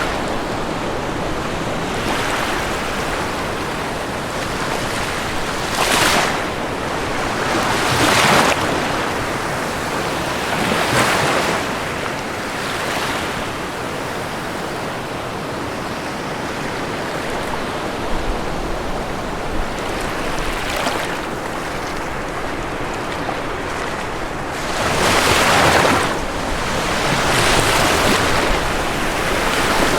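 Ocean waves breaking on a shore under a steady wash of surf, with waves cresting every few seconds, the strongest one about 25 seconds in.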